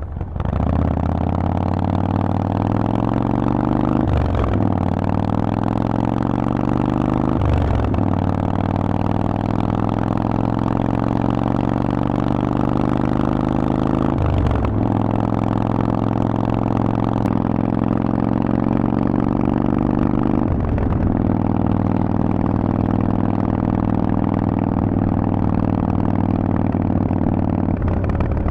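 Harley-Davidson Forty-Eight's air-cooled 1200 cc V-twin through a Vance & Hines exhaust, pulling away under throttle and running on through the gears. The note breaks briefly several times, at each upshift, then settles to a fairly steady pitch.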